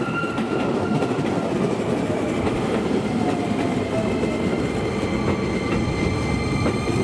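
Keisei Main Line electric train running through the station: a steady, loud rumble of wheels on rail with repeated clicks over the rail joints and a thin high wheel squeal.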